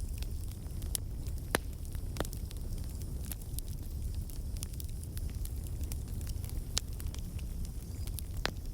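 Fire crackling: a steady low rumble with irregular sharp pops and snaps scattered through it.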